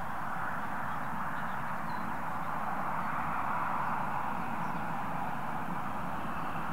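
Steady rushing noise of a train on the move, swelling slightly about halfway through.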